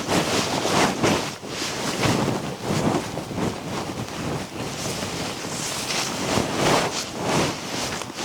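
Strong blizzard wind gusting, buffeting the microphone in irregular surges about once or twice a second.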